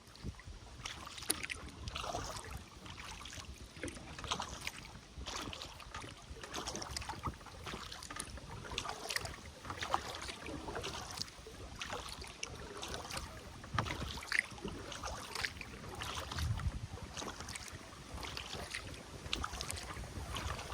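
Kayak on a river: water splashing and trickling irregularly around the hull and paddle, with wind rumbling on the microphone.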